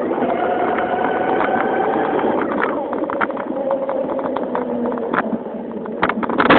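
Motorised bicycle riding with a 1200-watt Cyclone motor and a Turbo Spokes exhaust: a rattling, motorcycle-like buzz with a whining tone that sags in pitch through the middle as the bike slows. A few sharp, loud knocks come near the end.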